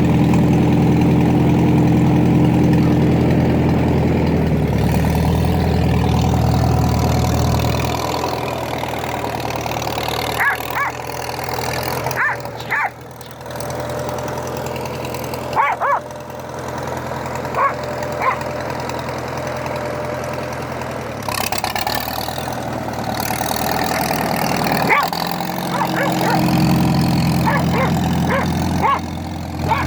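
1950 Farmall tractor engine idling steadily, loudest for the first several seconds and quieter after. A dog barks and yips in short bursts at intervals.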